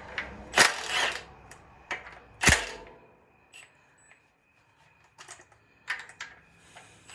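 Several sharp metal clanks and clicks of hand tools and steel parts being handled. The loudest comes about two and a half seconds in, followed by lighter scattered ticks.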